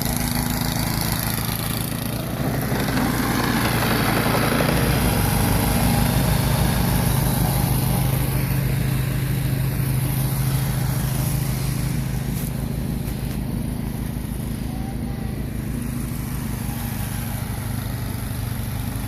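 A small engine running steadily, a little louder a few seconds in and then easing back.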